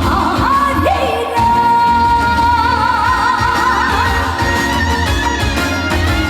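A woman singing a trot ballad live with band accompaniment. A slide up about a second in leads into one long held note with wide vibrato.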